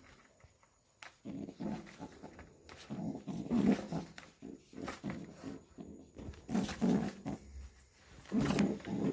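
Pigeon giving low, growl-like coos in four pulsing bouts, the rough threatening call of a pigeon on the attack.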